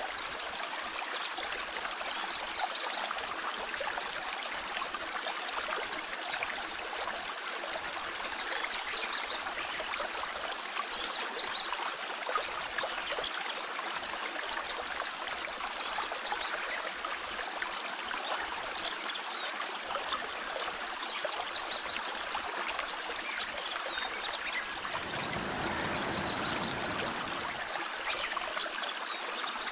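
A clear mountain stream flowing over rocks, a steady rush of water. A brief low rumble swells in about 25 seconds in.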